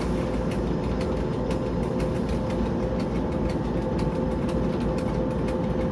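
The V16 diesel engine of a TEP70 passenger locomotive running steadily, a low rumble with a couple of steady tones held above it.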